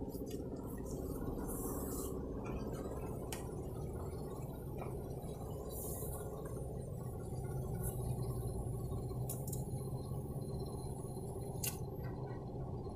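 Car engine idling, heard from inside the cabin as a steady low hum, with a few faint clicks.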